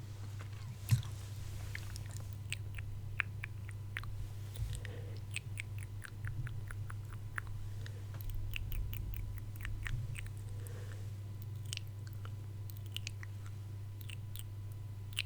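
Close-miked ASMR mouth sounds: many small, irregular wet clicks and smacks of lips and tongue, over a steady low hum.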